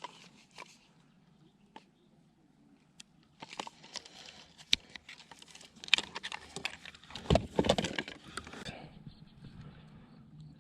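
Handling noises aboard a fishing kayak: scattered clicks and knocks, then a busy run of knocks and rustling from about three and a half seconds in that stops near nine seconds, with a dull thump in the middle of it.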